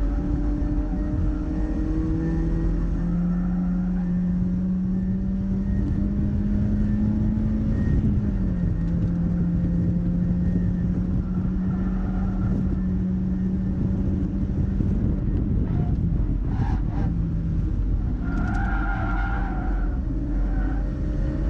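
Mazda MX-5's four-cylinder engine pulling hard on track, its note climbing steadily and then dropping about eight seconds in before holding. Tyres squeal for a couple of seconds near the end through a corner.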